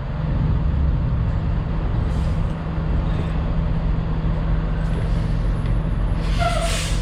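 Vehicle engine idling steadily, with a short burst of hissing air about six seconds in.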